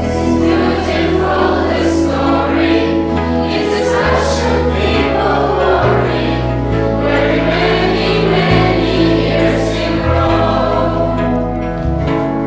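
Music with a choir singing over a backing of sustained bass notes that change every second or two.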